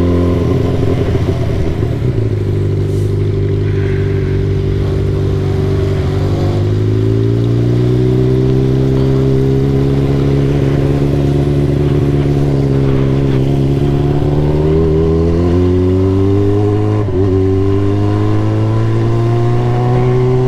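Motorcycle engine running under way: a steady drone whose pitch drops about two seconds in, then climbs slowly and holds, with brief dips near the end and a rise again at the close.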